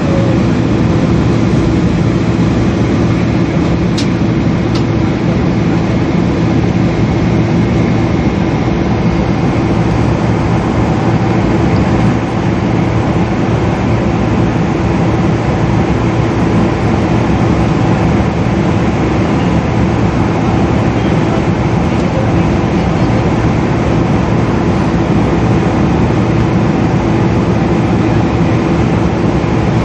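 Steady passenger-cabin noise of a Boeing 777: the even rush of engines and airflow with a low, constant hum, unchanging throughout. A single faint click about four seconds in.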